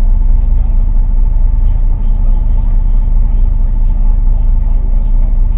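A boat's motor running steadily: a loud, even low rumble with a constant hum.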